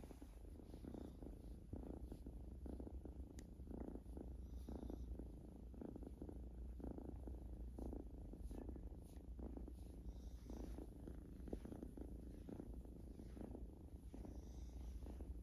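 Domestic cat purring steadily close to the microphone while it kneads, with a low continuous rumble that pulses softly about once a second.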